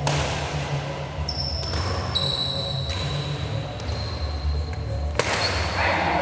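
Badminton rally: rackets striking the shuttlecock four times, roughly a second or more apart, over the steady low rumble of a large hall.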